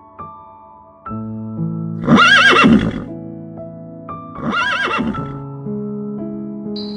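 Horse whinnying twice, each call about a second long with a quavering, wavering pitch. Soft piano music plays underneath.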